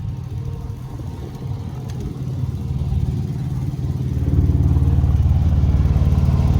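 Big-rig diesel engine running steadily at idle, growing louder about four seconds in and then holding steady.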